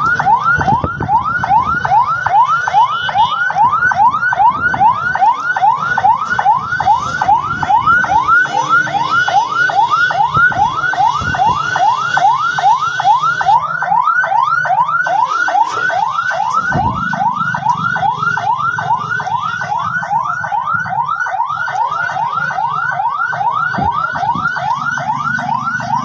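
Electronic siren sounding in quick rising sweeps, about two a second, over a low rumble.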